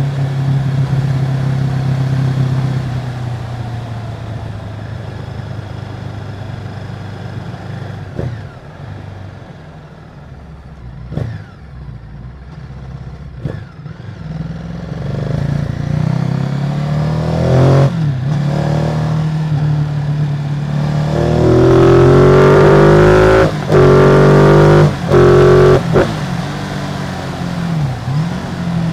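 Ducati Multistrada 950's 937 cc Testastretta L-twin on its stock exhaust, running steadily, then easing off with a few short sharp blips. From about halfway it revs up again and again, each pull rising in pitch, loudest near the end, with brief cuts between pulls.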